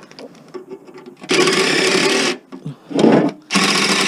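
Handheld power tool run in two bursts of about a second each, trying to turn a fastener on a lawn mower, with a short heavy knock between the bursts.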